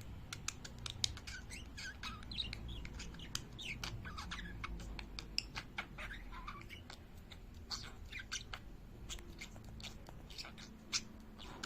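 Budgerigar chirping and chattering in short, irregular chirps, mixed with sharp clicks.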